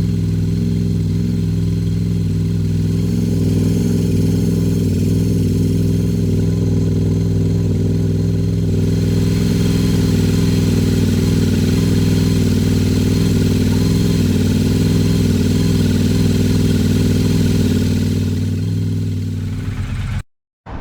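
Triumph Bonneville Bobber's parallel-twin engine idling steadily as it warms up from cold. It cuts off suddenly near the end.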